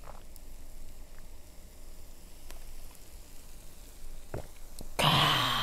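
Faint sizzling of pork belly frying on a cast-iron pot-lid griddle, with a few small ticks. About five seconds in, a loud, breathy voice sound from a person cuts in.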